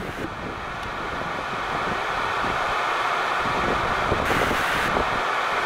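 Heavy rain falling, a steady even hiss that starts abruptly and grows louder over the first two seconds.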